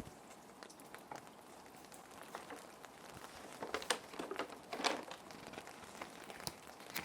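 Plastic sheet protectors crinkling and rustling as paper sheets are slid into them, loudest in two bursts around the middle, over a steady background of rain.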